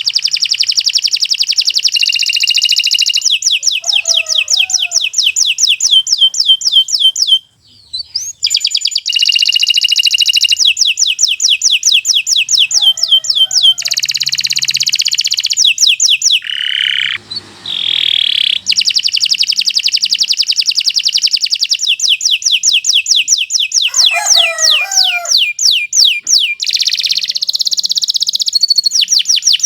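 Domestic canary singing a long, continuous song of rapid rolling trills and held high notes, pausing only briefly about a third and about halfway through before starting a new phrase.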